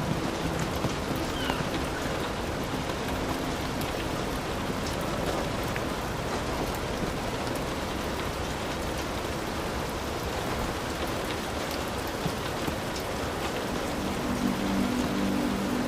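Heavy rain falling steadily on a hut roof, a dense even hiss with fine drop ticks. A low steady hum comes in near the end.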